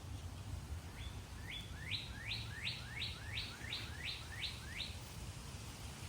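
A songbird singing a run of about ten quick rising whistled notes, about three a second, starting about a second in and stopping near the end. A steady low rumble sits beneath it.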